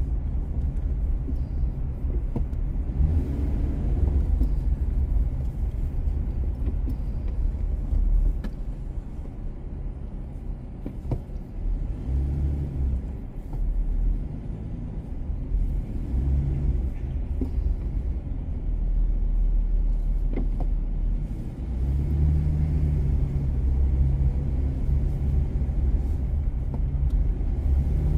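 A car on the move, with a steady low rumble of engine and tyres on the road that eases off for a few seconds about a third of the way in.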